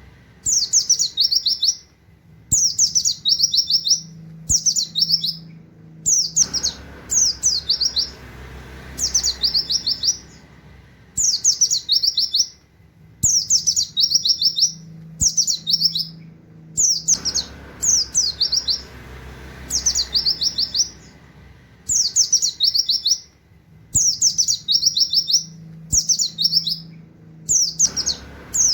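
A pleci (white-eye) singing in rapid-fire bursts: short phrases of quick, high, downward-sweeping 'wit wit' notes in a canary-like style, repeated about once a second with brief pauses between.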